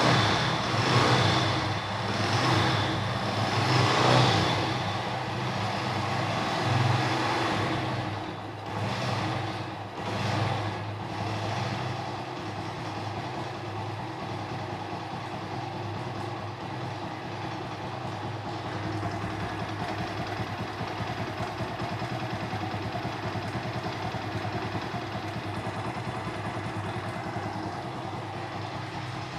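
Mahindra Centuro motorcycle's single-cylinder four-stroke engine running after being revved up and down several times at first, then settling to a steady idle. The mechanic hears a noise in it that he suspects may be from the timing or a knocking piston.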